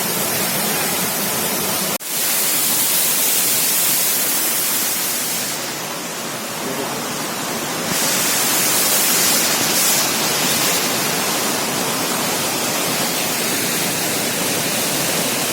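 Small waterfall pouring close by: a steady rush of falling water, with a brief break about two seconds in.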